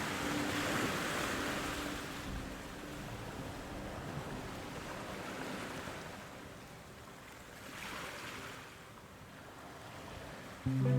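A rushing noise with no clear pitch that swells twice, once about a second in and again near 8 seconds. Background music fades out at the start and comes back in abruptly near the end.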